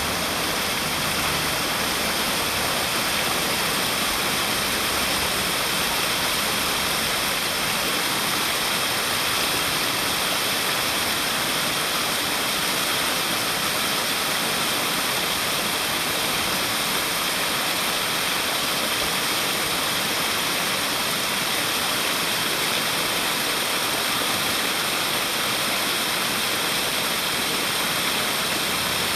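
Steady rushing of flowing water, an even hiss that does not change, with a thin steady high tone running under it.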